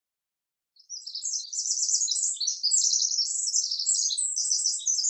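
Rapid, high-pitched bird-like chirping and twittering, starting about a second in and running on without a break.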